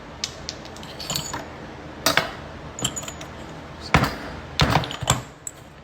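Small metal hatch-strut parts clinking and knocking as they are handled and worked apart, with scattered sharp clicks and louder knocks about 2, 4 and 5 seconds in.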